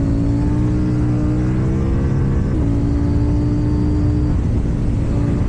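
KTM Duke 790's parallel-twin engine through an Akrapovič exhaust, running under way with its pitch creeping up slightly, a quick small dip about two and a half seconds in, then holding steady.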